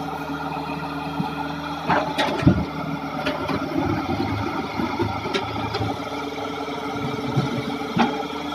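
Hitachi excavator's diesel engine running steadily, with several sharp knocks in the middle and one near the end.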